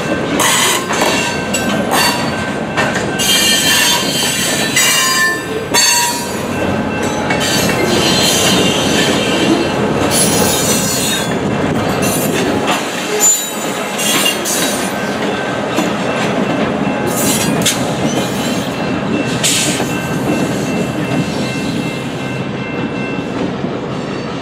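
Slow freight train passing over a road crossing: covered hopper wheels squealing and clicking over the rails, then two EMD GP38-2 diesel locomotives shoving at the rear rumble by about halfway through. The crossing's electronic bell rings along with it.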